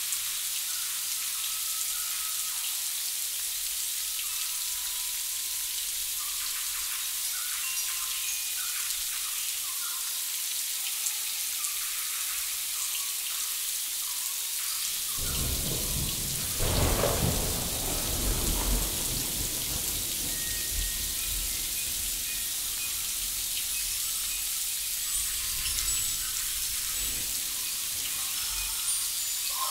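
Steady high hiss, joined about halfway through by a deep rumble that swells for a few seconds and then settles into a softer low rumble under the hiss.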